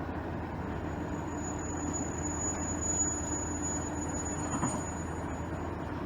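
Cabin sound inside a KiHa 110 series diesel railcar: the diesel engine running with a steady low hum, a faint high whine over it for a few seconds in the middle, with the car just braked down to a station stop.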